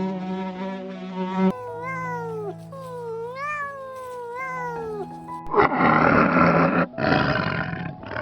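A series of animal calls over soft background music: several pitched calls that rise and fall in the first half, then two long, rough, noisy calls in the second half.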